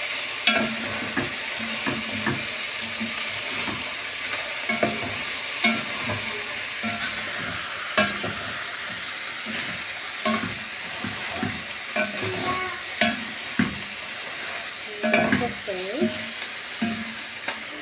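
Chicken frying in oil in a metal cooking pot with a steady sizzle, while a spoon scrapes and clicks irregularly against the pot as the pieces are stirred and turned.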